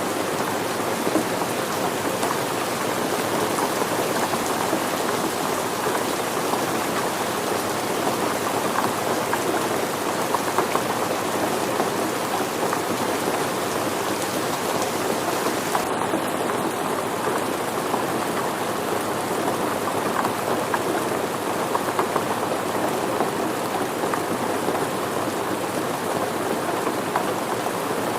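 Steady rain falling, a dense even wash of many drops striking surfaces, with no change in strength.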